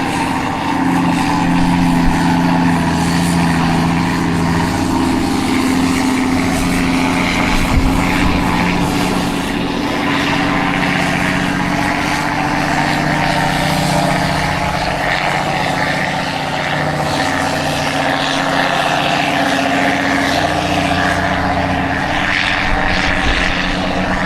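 Heavy truck's diesel engine running steadily as it drives, a loud continuous drone with its pitch shifting slightly about a third of the way in.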